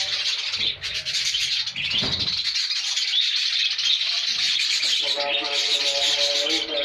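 A flock of budgerigars chattering and chirping continuously. Background music with steady held tones comes in about five seconds in.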